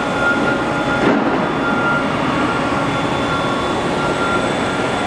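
Doosan DMV 3016LD vertical machining center's Z axis traversing on its FANUC servo drive: a steady mechanical hum with a thin whine that comes and goes, and a small bump about a second in.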